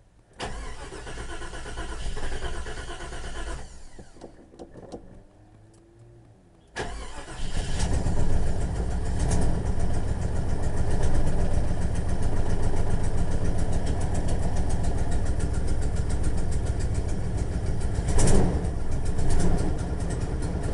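A 1989 Jeep Grand Wagoneer's AMC 360 V8 is cranked cold by its Chrysler starter for about three seconds without catching. After a short lull it fires about seven seconds in and settles into a steady cold idle, with one brief rise in engine speed near the end. The idle is uneven, a galloping miss that the owner blames on a bad spark plug and an exhaust manifold leak.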